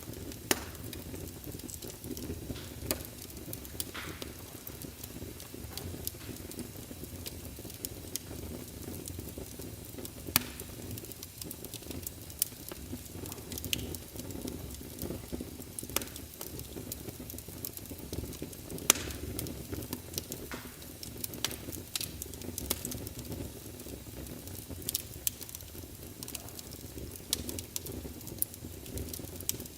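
Wood fire burning in a fireplace: logs crackling and popping irregularly over a steady low rumble of flames, with a few louder pops.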